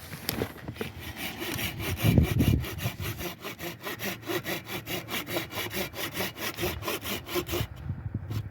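Hand saw cutting through wood in quick, even back-and-forth strokes, about four to five a second, stopping near the end.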